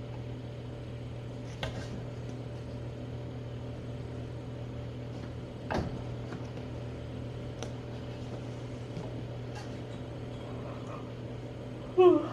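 Steady low mechanical hum of room equipment, with a few faint clicks and a short pitch-bending cry right at the end.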